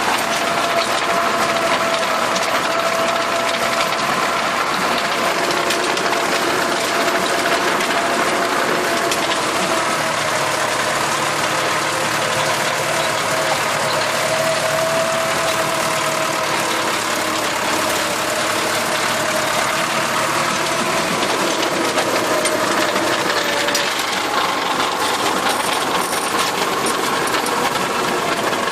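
Tractor running steadily under load while driving a rotary tiller, the engine's drone mixed with the tiller's continuous mechanical clatter and a few steady whining tones.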